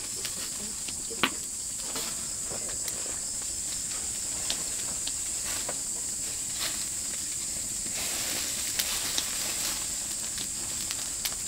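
Oak-wood barbecue fire crackling and meat fat sizzling on the grill, with scattered sharp pops and a hiss that grows a little fuller about two-thirds of the way through. A steady high insect chirring runs behind it.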